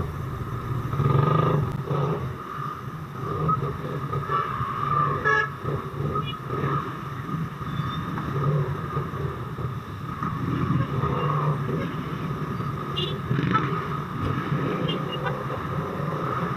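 Suzuki Raider motorcycle engine running steadily while riding in slow, heavy road traffic, with the noise of surrounding vehicles.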